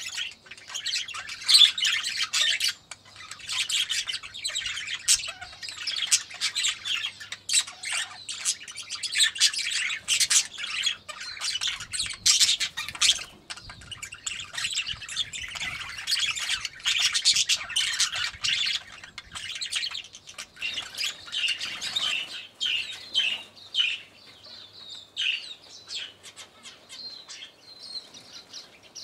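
A crowd of aviary birds chirping and squawking all at once: dense, overlapping short calls that thin out to scattered chirps near the end.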